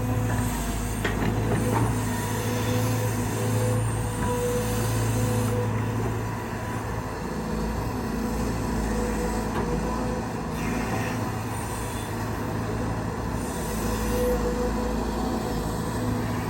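Caterpillar 320GX excavator's four-cylinder C4.4 diesel engine and hydraulic pump running steadily while working, the engine note easing a little about seven seconds in.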